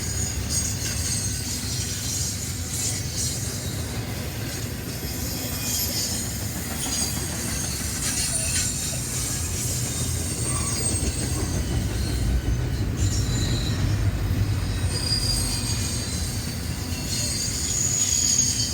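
Train cars rolling past with a steady low rumble and the wheels squealing on and off in high, drawn-out tones.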